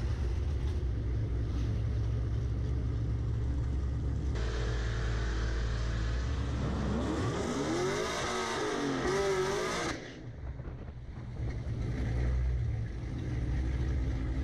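Cammed 2017 Camaro SS's 6.2-litre LT1 V8 idling with a steady rumble, then launching about four seconds in and pulling hard at full throttle, its pitch rising and falling through the automatic's gear changes. About ten seconds in it drops off sharply as the driver lifts and the car coasts.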